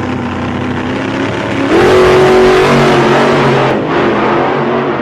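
Vehicle engine revving: a steady running note that climbs sharply in pitch and gets louder about one and a half seconds in, then holds high.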